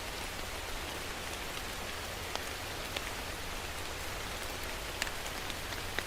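Steady rain falling, an even hiss with individual drops ticking sharply on a surface every second or so.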